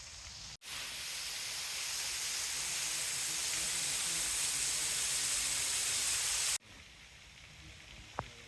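Steady, even hiss of water in a rain-soaked forest. It jumps louder at a sudden cut about half a second in, holds for about six seconds, then drops back at another sudden cut, with a brief click near the end.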